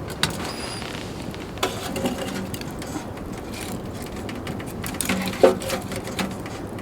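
Tent fabric fluttering and rattling steadily in strong wind, with a couple of louder knocks, one about a second and a half in and one near the end.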